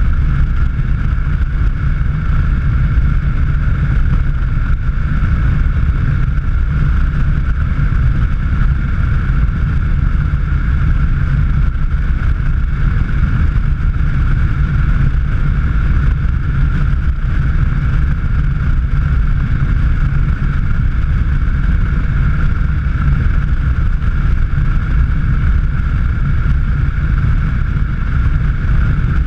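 A car driving steadily at speed: a loud, even low rumble of engine, tyres and wind, with a steady high whine over it.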